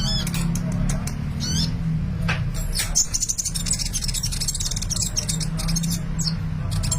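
A sunbird singing actively: quick high chirps, sharp gliding notes and rapid buzzy trills, over a steady low hum.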